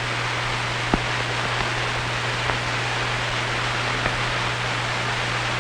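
Steady hiss with a low mains-type hum from an old film soundtrack, broken by a couple of faint clicks.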